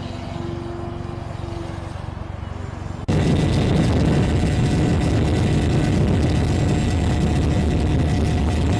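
Radio-controlled model airplane's motor running in flight: a steady hum, then about three seconds in an abrupt jump to a much louder, rushing motor-and-wind noise that stays steady.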